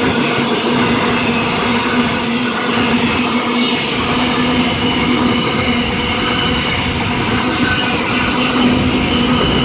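Freight train passing close by at speed, after its locomotives: a loud, steady rumble of wagon wheels on the rails with a steady hum underneath.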